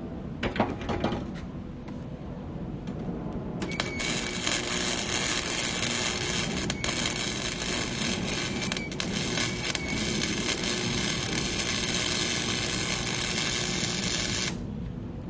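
Lincoln Electric Weld-Pak flux-core wire-feed welder running a bead on steel rebar: a few short crackles about half a second in, then a steady, dense crackle of the flux-core arc for about ten seconds that cuts off suddenly near the end when the trigger is released.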